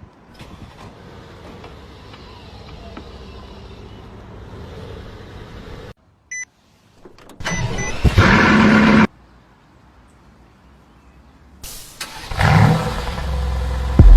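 Car sounds cut together: a steady low hum, then after an abrupt cut a short electronic beep and two loud stretches of rushing noise a few seconds apart.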